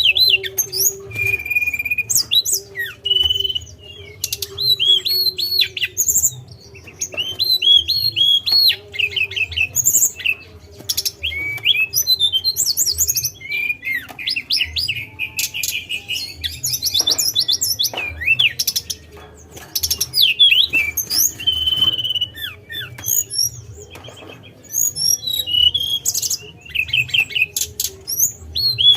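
Tledekan, a Cyornis blue flycatcher, singing a fast, varied run of high whistles, chirps and trills in short phrases with brief pauses, over a faint steady hum.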